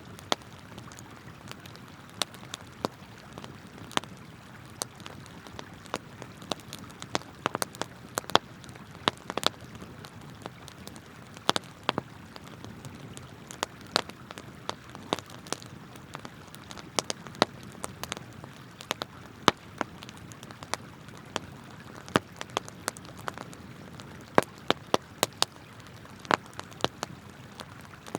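Wood campfire crackling, with frequent sharp snaps at irregular intervals, over the steady rush of a flowing river.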